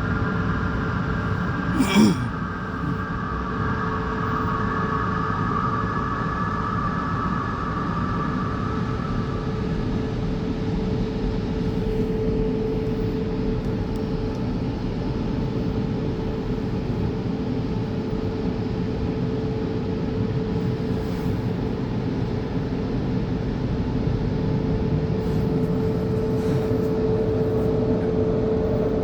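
Christ Varius automatic car wash machinery running: a steady rumble with a held hum, and higher tones that fade out about ten seconds in. A sharp knock sounds about two seconds in.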